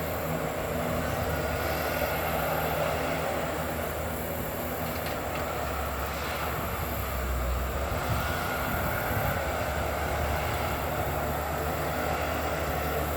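Bulldozer's diesel engine running steadily, a low droning hum with no pause.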